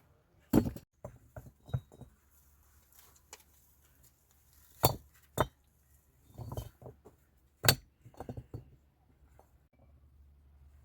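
Irregular sharp clinks and knocks of hard objects being handled, with four louder strikes spread unevenly among smaller taps.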